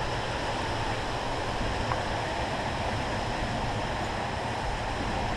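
Steady rushing outdoor noise with no distinct events, the kind made by wind and water around the microphone.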